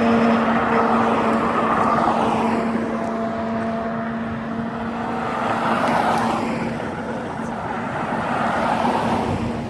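Car engines running, with a steady engine hum underneath and several cars driving past one after another, each swelling and fading.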